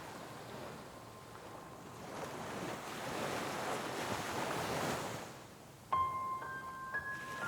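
Ocean surf washing in, swelling and fading over a few seconds. About six seconds in, a few held high music notes come in over it.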